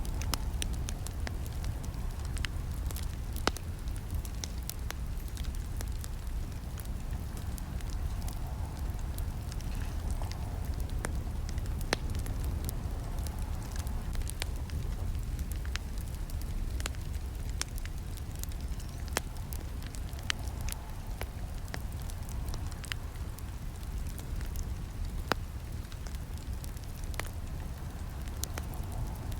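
Campfire burning: irregular crackles and sharp snaps over a steady low rush of flames.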